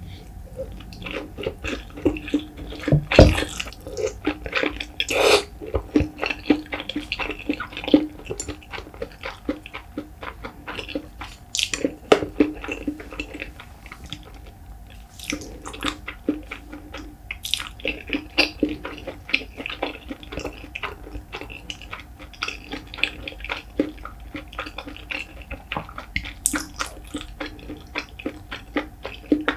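Close-miked wet chewing and lip smacking of a mouthful of white rice with salted pollock roe: a steady run of small moist clicks, with a few louder smacks now and then.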